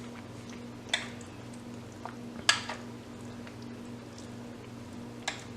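A spoon stirring food in a ration meal container, with a few separate short clicks of the spoon against the container, the loudest about two and a half seconds in. A steady low hum runs underneath.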